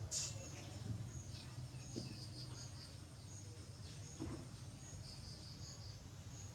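High, short insect chirps repeating at a steady pace, about one every three-quarters of a second, over a low steady hum, with a sharp click right at the start.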